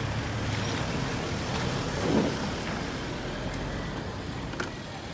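Road traffic noise: a motor vehicle's engine running with a low hum that eases toward the end, and a louder swell about two seconds in.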